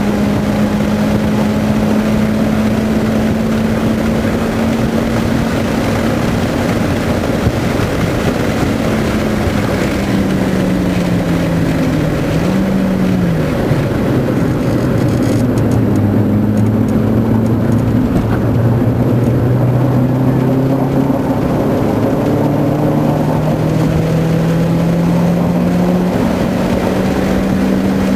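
Car engine heard from inside the cabin on a track lap, with heavy road and wind noise throughout. The engine holds steady revs, then drops as the car slows for a corner, with a short blip of revs about halfway through. It stays low for several seconds, then climbs steadily as the car accelerates out.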